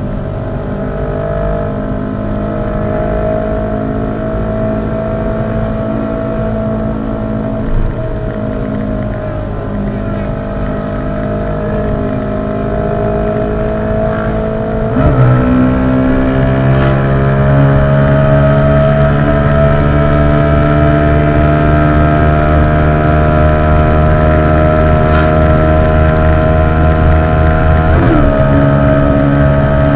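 Motorcycle engine running under way, a steady engine note that drifts slowly in pitch. It changes abruptly about halfway through and runs louder after that, with another sudden break near the end, like gear shifts.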